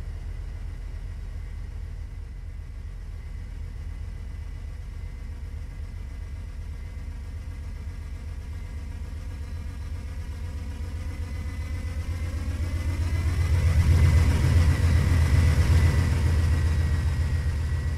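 Diesel locomotives of a freight train running with a steady low engine rumble, drawing closer and growing louder to pass by about two-thirds of the way through, then easing off slightly.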